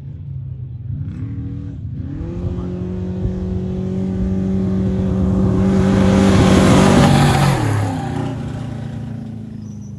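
Off-road race vehicle at full throttle, its engine note climbing through gear changes as it approaches. It passes close about seven and a half seconds in, the pitch drops sharply, and the engine fades away.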